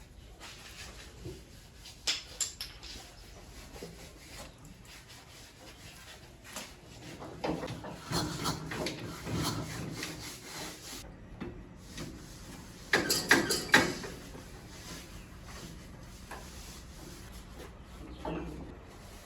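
Hand work on old vehicle parts: irregular scraping and rubbing with short clatters, the loudest cluster about two-thirds of the way through.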